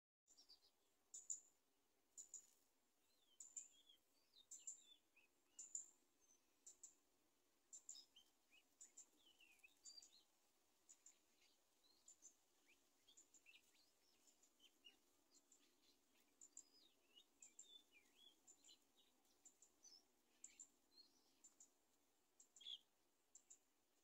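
Faint, scattered high chirps and short whistled bird notes, with a sharp high tick that repeats about once a second.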